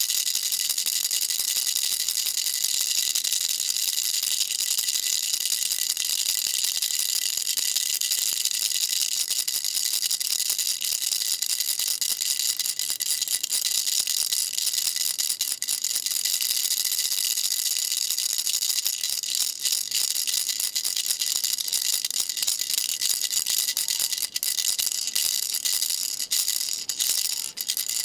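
Baby rattle shaken steadily, giving a dense, continuous, high-pitched rattle, with a few brief breaks in the shaking near the end.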